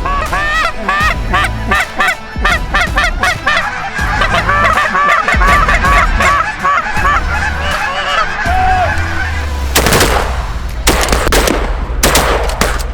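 A flock of geese honking, many overlapping calls at once, thinning out after about nine seconds. Three sharp bangs follow in the last few seconds.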